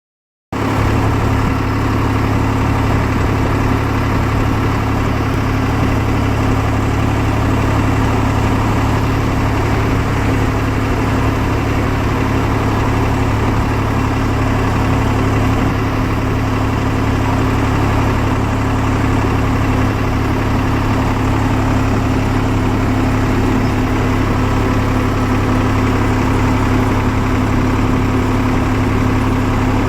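Swaraj 744 tractor's three-cylinder diesel engine running steadily at a constant speed.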